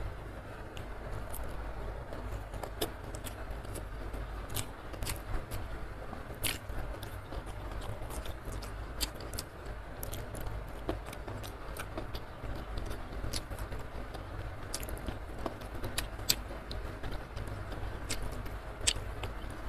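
Close-miked eating: chewing with wet mouth smacks and many sharp clicks as rice and side dishes are eaten by hand, over a steady hiss of rain that has not let up.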